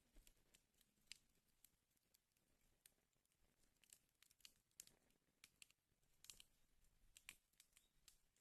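Wood fire crackling in a fireplace, faint: irregular sharp pops and snaps at uneven intervals.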